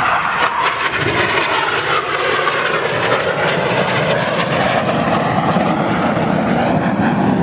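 BAE Hawk T1 jets of the Red Arrows flying past, a loud steady jet roar with a slowly shifting pitch as the aircraft pass.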